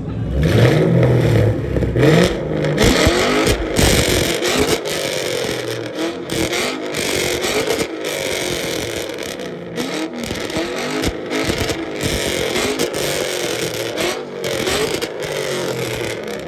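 Fox-body Mustang engine revved hard again and again through a loud exhaust, its pitch rising and falling with each blip.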